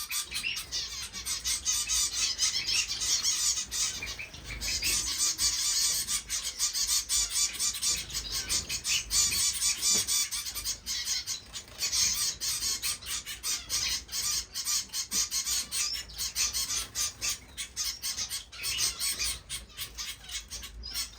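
Many small finches in a room of cages chirping and chattering together: a dense, continuous stream of short, high calls.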